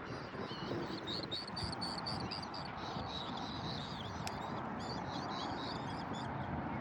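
Many small birds calling and chirping in quick, high, repeated notes over a steady rushing background noise.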